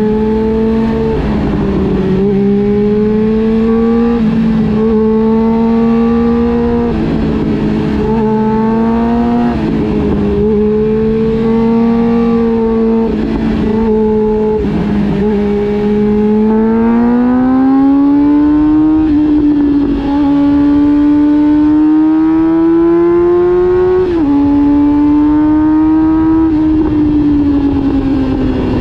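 Honda CB400 Super Four Revo inline-four motorcycle engine running under way. Its pitch holds fairly level with several brief dips as the throttle eases, then climbs steadily for a few seconds past the middle as the bike speeds up, with short dips again later on.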